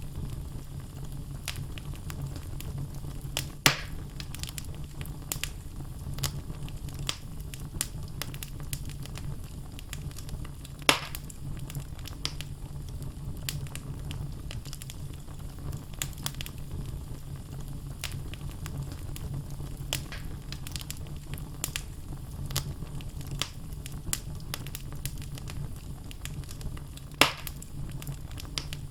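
Wood fire in a fireplace crackling, with many small snaps and three louder pops, over a steady low rumble of the flames.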